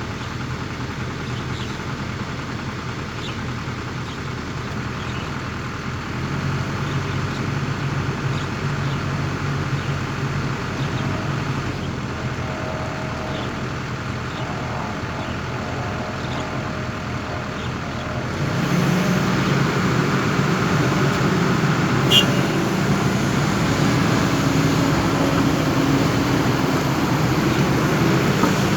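Heavy diesel engine of construction machinery running steadily. Its sound grows louder about six seconds in and again about two-thirds of the way through, with one sharp click a few seconds after that.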